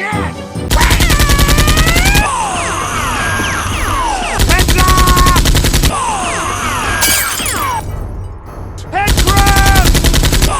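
Three bursts of rapid automatic gunfire sound effects, each about a second and a half long, with falling whistling sounds between them and music underneath.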